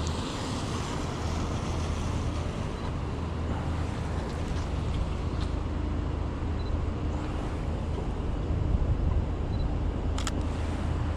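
City street traffic: a steady low rumble of road vehicles with a faint steady hum, and a single sharp click about ten seconds in.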